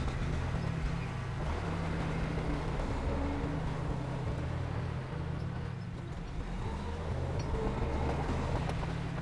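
Diesel engine of heavy earthmoving equipment, a bulldozer or dump truck, running steadily with a low, even hum.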